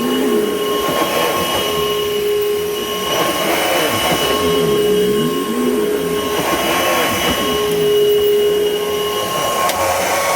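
2004 Panasonic upright vacuum cleaner running, a steady motor whine with a lower tone that sweeps down and back up about every three seconds.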